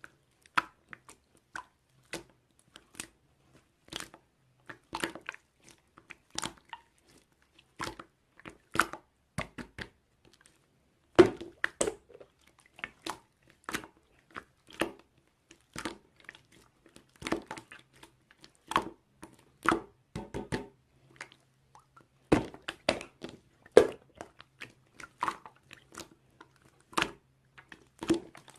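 Irregular crunchy clicks and pops close to the microphone, about one or two a second, over a faint low hum that comes and goes.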